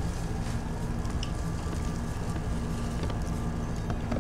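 Close-up eating sounds of people chewing and biting into fried chicken wings, with small crackling clicks and wet mouth sounds, over a steady low background hum.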